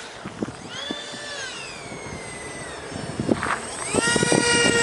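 Twin electric ducted fans of an RC model airliner whining. The pitch falls away over the first couple of seconds, then climbs again and holds as a louder, steady high whine near the end.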